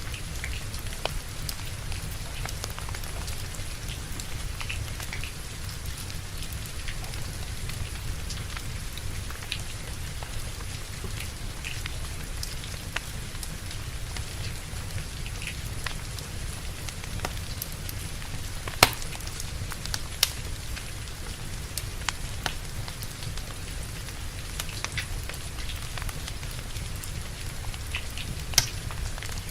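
Steady rain with a low rumble underneath, mixed with the scattered crackle of a wood fire burning in a fireplace; a few sharper pops stand out, two of them about two-thirds of the way through and one near the end.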